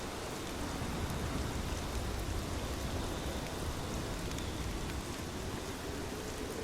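Steady rain falling, an even rushing hiss with scattered individual drop ticks.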